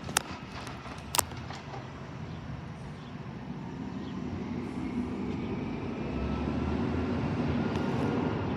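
Garbage truck's engine running, its low rumble building up over the last few seconds, with two sharp metallic knocks in the first second or so.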